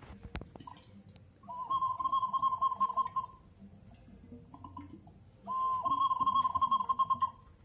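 A pot giving out an animal-like call twice: a whistle-like tone that warbles rapidly, each call lasting about two seconds, the second starting about four seconds after the first.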